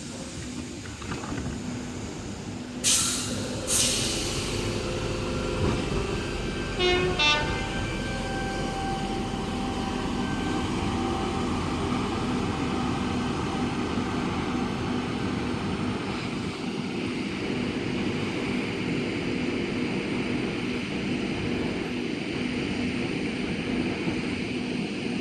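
A train running past on the line: a steady rumble of wheels and motors with low humming tones, building from about five seconds in. Before it come two loud, sharp hissing bursts about three and four seconds in, then a brief pitched pulsing sound around seven seconds.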